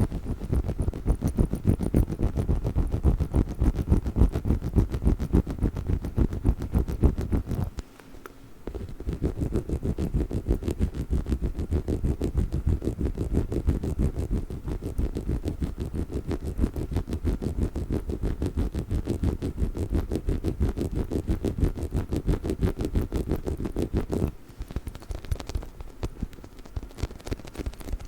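Fast, dense tapping and scratching on a chicken-shaped dog toy, many strokes a second. It pauses briefly about eight seconds in and goes lighter near the end.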